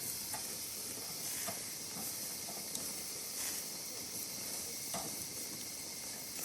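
Meat sizzling on a charcoal barbecue grill: a steady hiss with scattered pops and crackles.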